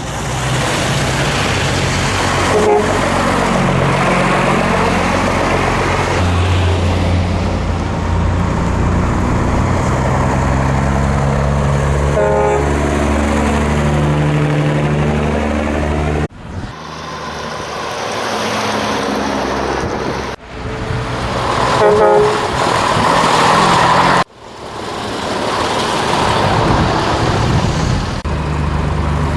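Scania L111 Super truck's six-cylinder diesel engine running under way, its pitch rising and falling, with short horn blasts a few times. The sound breaks off abruptly three times.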